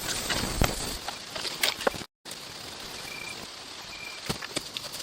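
Steady insect hum with scattered sharp clicks and taps. The sound drops out for an instant about two seconds in, and two short high chirps come a second apart after it.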